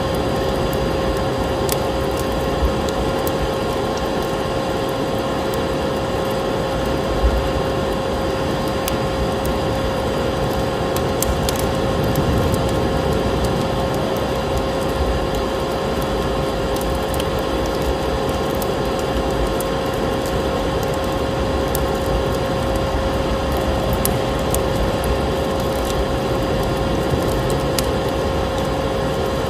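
Wood fire crackling with scattered sharp pops, over the steady drone and constant hum of a vacuum cleaner motor.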